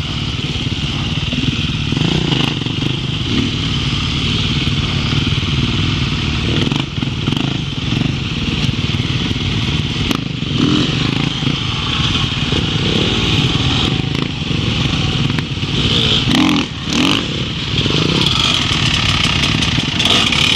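Dirt bike engine running, its pitch rising and falling as the throttle is opened and closed, with a few sharp knocks near the end.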